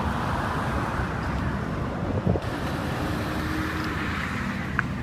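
Steady background rumble of road traffic, with some wind noise on the microphone.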